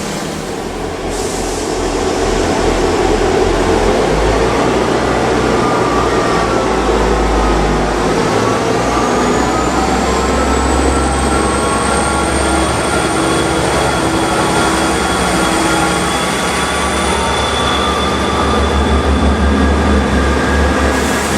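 A railway train running on the line with a steady rumble. A thin high-pitched whine rises about nine seconds in and then holds.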